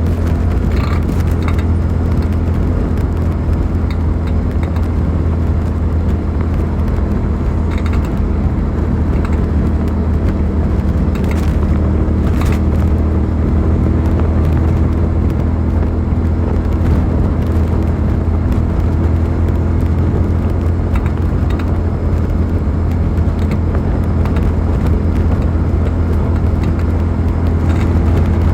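Suzuki SV650's 645 cc 90-degree V-twin engine running at a steady pitch under way.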